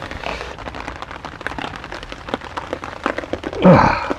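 Heavy rain falling on a tarp overhead, the drops striking it as many irregular sharp taps. Near the end a brief, louder sound falls in pitch.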